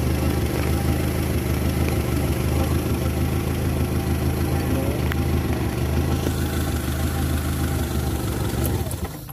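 Mitsubishi Colt T120SS engine idling steadily, then dying away near the end as it stops.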